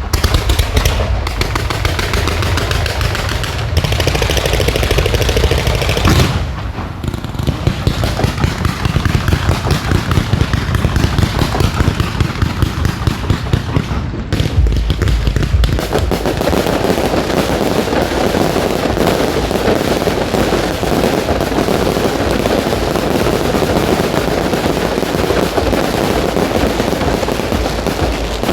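Fireworks going off in a dense, continuous barrage of rapid bangs and crackling. It eases briefly about six and fourteen seconds in, then grows thicker.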